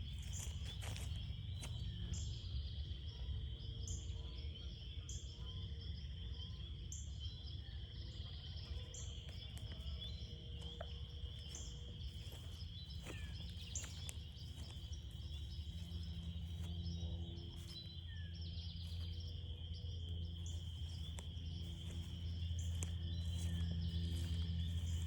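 Spring frog chorus: a steady high-pitched trill with short, repeated high calls over it. Under it is a low rumble that grows louder near the end.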